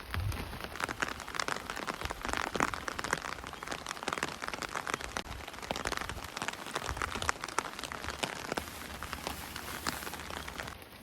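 Heavy rain falling, a dense, steady patter of many drops striking a surface.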